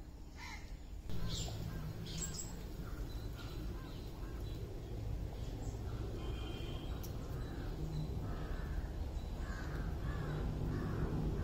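Birds calling in repeated short calls over a steady low outdoor rumble, which gets louder about a second in.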